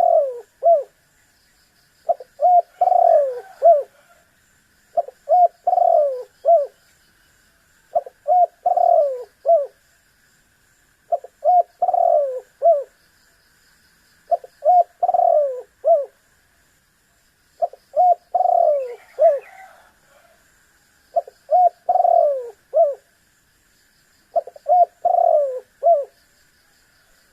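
Spotted dove (tekukur) cooing its song over and over. Each phrase is a few short coos and a longer falling coo, and the phrase repeats about every three seconds.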